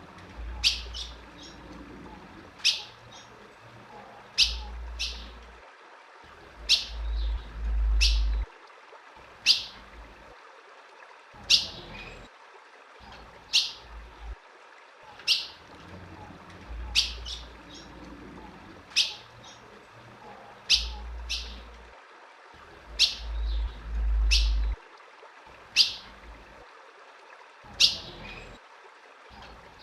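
Female ultramarine grosbeak (azulão) giving short, sharp chip calls, one every one to two seconds, with a few stretches of low rumble underneath.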